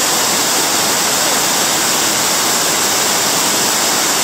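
Rushing water: a loud, steady, unbroken rush, like a waterfall or fast stream.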